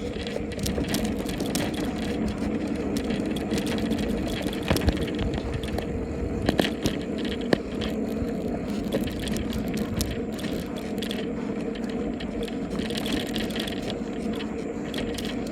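Bicycle being ridden over a rough road: steady tyre and riding noise with rattles and a few sharp knocks from the bike.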